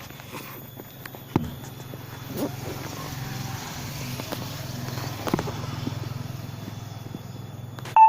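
Two Profan industrial ceiling fans running: a steady low motor hum with a hiss of moving air, broken by a few faint knocks.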